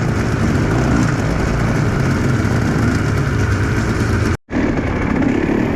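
Enduro motorcycle engine running steadily while the bike is ridden. The sound cuts out for an instant about four and a half seconds in, then carries on.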